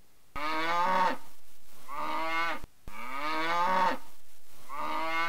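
A cow mooing: one short recording of two drawn-out moos is played twice, four moos in all. Each piece starts and stops abruptly.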